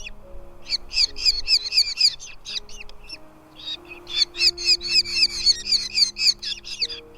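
Nestling birds giving shrill begging calls in rapid runs of about eight a second, thinning out briefly around the middle, over soft background music of slow held low notes.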